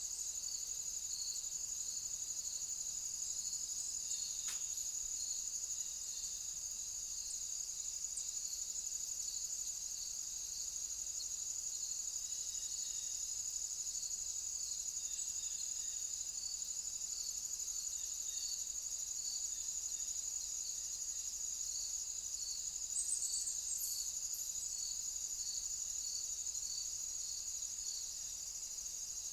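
Chorus of insects: a steady high trill with a softer, regular pulsing call beneath it at about two pulses a second.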